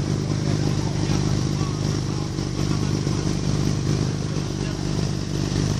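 Vintage vehicle engine idling steadily.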